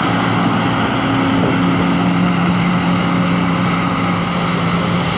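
Steady drone of a combine harvester and a tractor at work, their diesel engines running continuously with a low, even hum.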